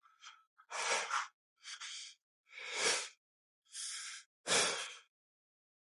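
A man breathing heavily: about six breaths in and out, roughly one a second.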